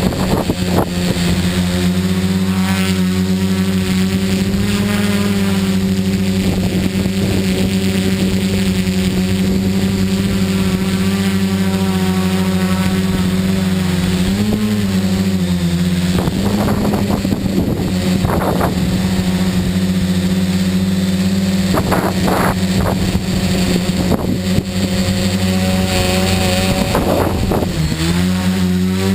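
Tricopter's brushless motors and propellers running in flight, a steady hum whose pitch briefly wavers about halfway through and dips and rises again near the end.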